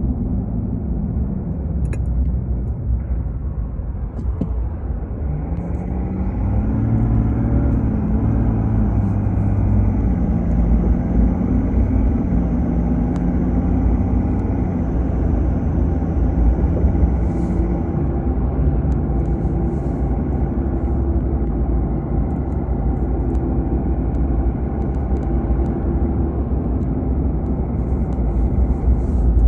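A car driving, heard from inside: a steady low rumble of engine and road noise, with the engine note climbing a few seconds in as the car speeds up, then holding steady.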